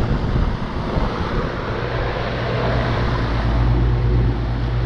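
2012 Bryant Legacy Line 2.5-ton air conditioner condenser running: the scroll compressor's steady hum under the rush of air from the condenser fan. The airflow is strong now that the coil has been rinsed clean.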